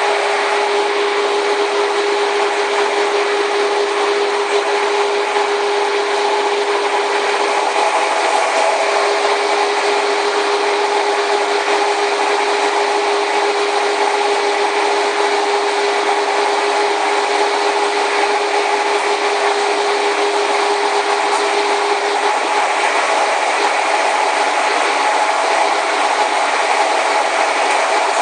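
Steady running noise of the BART Oakland Airport Connector, a cable-hauled people mover, in motion: a continuous rushing, rubbing sound with a steady mid-pitched hum that fades out about 22 seconds in.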